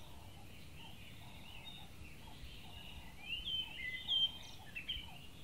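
Wild birds chirping outdoors: many short overlapping calls and quick whistled sweeps, busiest about three to four seconds in, over a steady low background hum.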